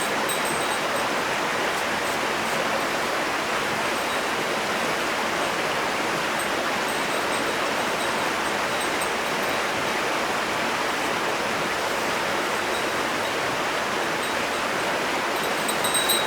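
Steady, even rushing of running water, with a few faint light ticks near the end.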